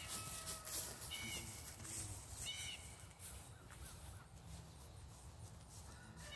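Two short bird calls about a second and a half apart, over a steady low rumble.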